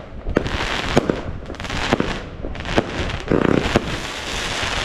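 Consumer firework battery (cake) firing: a dense run of sharp bangs over a continuous crackle, with a brief pitched note about three and a half seconds in.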